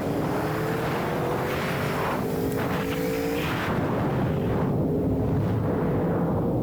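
Sport motorcycle engine pulling under acceleration, its pitch climbing steadily, dipping at a gear change about three and a half seconds in, then climbing again. Wind noise rushes over it in the first half.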